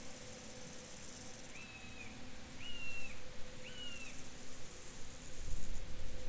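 Open-field ambience: a bird gives three short whistled calls about a second apart, over buzzing insect trills that come in bursts. A low rumble rises near the end.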